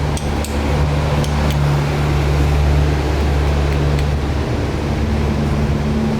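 A steady low machine hum with a few faint ticks; the hum shifts slightly a little past halfway.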